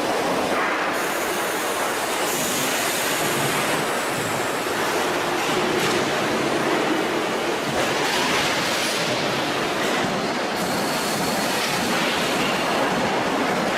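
Factory machinery running on a water heater tank production line: a loud, steady, hissing din with no pauses.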